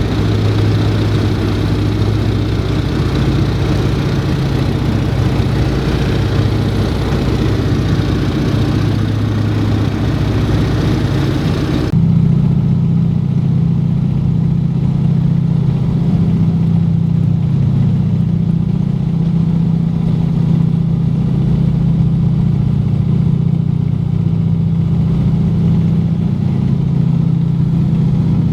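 Junkers Ju 52's three radial engines droning steadily in flight. About twelve seconds in the sound changes abruptly to a duller drone with less hiss and a slightly higher hum.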